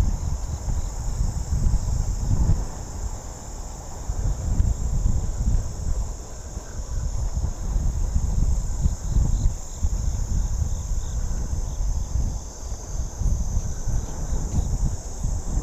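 A steady, high-pitched chorus of insects in the trailside vegetation, heard over a low, gusty wind rumble on the microphone from riding a bicycle.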